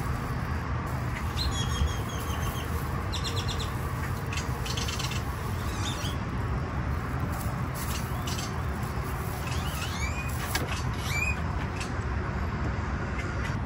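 Birds chirping, with short high calls and several quick trills scattered throughout, over a steady low rumble.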